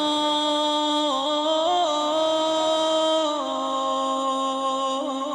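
A single voice chanting in long, held notes with small ornamental turns, dropping to a lower note about three seconds in.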